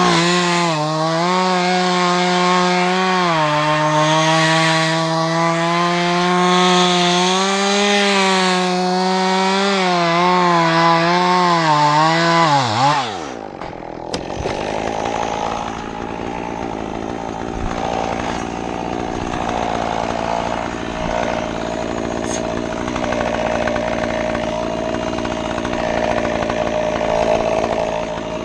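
Chainsaw engine running at high revs, its pitch wavering slightly, then dropping away and stopping about 13 seconds in. A quieter, steady mechanical hum follows.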